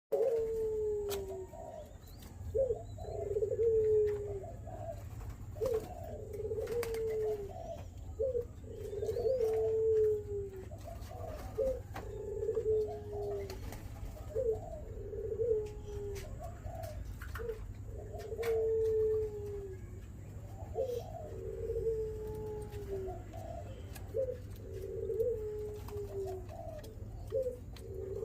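Spotted dove cooing over and over: a short note followed by a longer falling note, repeating about every one and a half to two seconds, over a low steady hum with scattered faint clicks.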